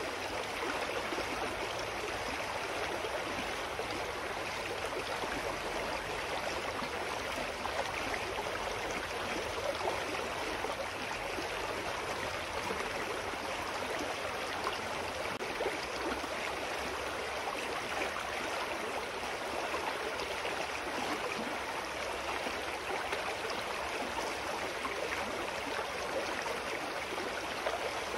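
Clear mountain stream flowing over rocks: a steady, even rush of water with a light gurgle.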